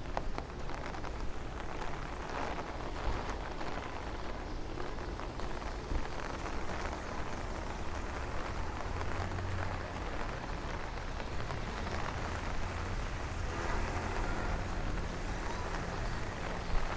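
Steady heavy rain falling on the street and the umbrella overhead, over a low rumble, with a vehicle engine humming past near the end.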